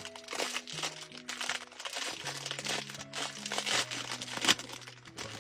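Plastic snack wrapper crinkling and crackling as it is handled and opened, with a sharper crackle about four and a half seconds in, over background music with held notes.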